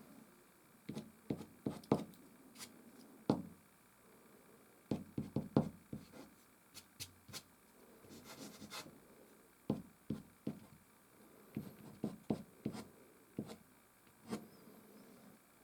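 Soft pastel on canvas: a string of short, irregular taps and brief strokes, some with a soft low thud, coming in uneven clusters.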